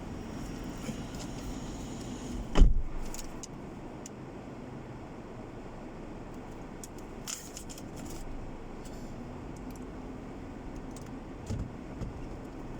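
Steady car-cabin hum, with one loud thump about two and a half seconds in and a few small clicks and rattles later on.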